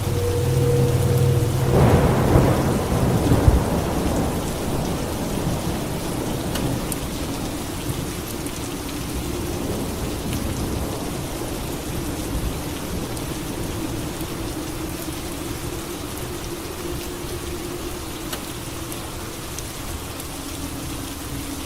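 Steady heavy rain with a thunderclap about two seconds in: a sharp crack, then a rumble fading away over the next few seconds. A low steady hum stops just as the thunder begins.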